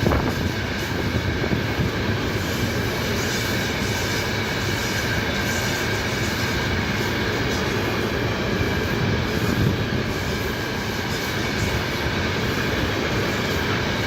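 Freight train rolling past on the track, a steady, loud rumble of wagon wheels on rail with a thin high tone running over it.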